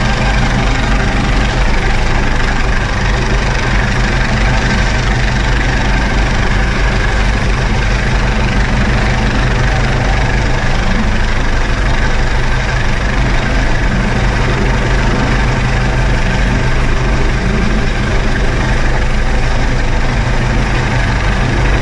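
Coast Guard MH-65 Dolphin helicopter running loud and steady, with constant rotor and turbine noise and no change in pitch or level.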